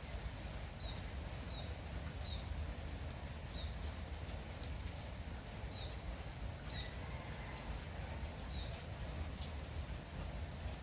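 Steady light rain falling, with a low rumble underneath. A small bird gives short, high chirps about once a second, some of them rising.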